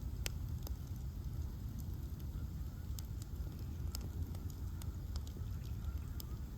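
Bonfire of ash logs crackling: scattered sharp pops and snaps over a steady low rumble of the burning fire.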